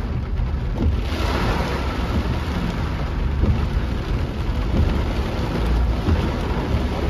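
Heavy rain drumming steadily on a car's roof and windshield, heard from inside the cabin, with a low rumble underneath.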